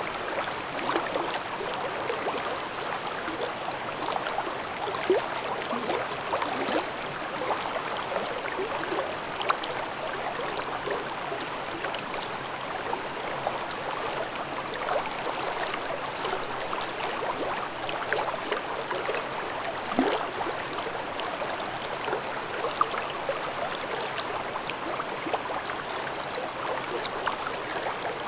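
Mountain stream in a gorge babbling steadily over rocks: a constant rush of water full of small gurgles and splashes.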